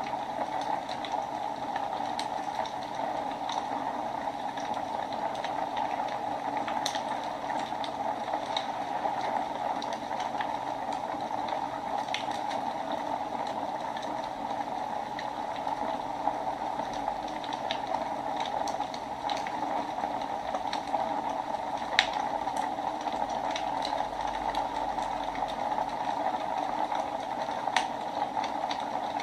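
Wood fire burning in a fireplace: a steady hiss with scattered sharp crackles and pops, the loudest pop coming about three-quarters of the way through.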